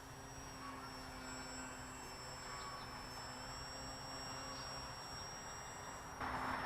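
Faint, steady whine of a Crack Pitts electric foam RC plane's motor and propeller flying slow, with a high tone that steps slightly up and down with throttle. The sound grows a little louder near the end.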